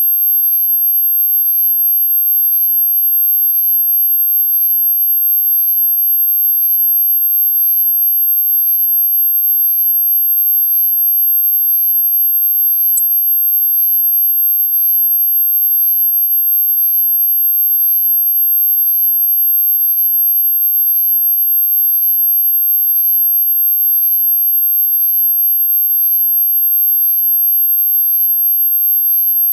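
A single very high-pitched pure sine tone, held perfectly steady without a break, played as an 'ultrasound' meant to irritate cats and dogs. A faint click comes about halfway through.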